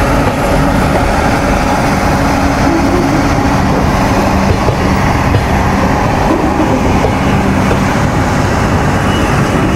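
Running noise of a passenger train, heard from its open doorway as it runs into a station yard: a steady, even noise with no break.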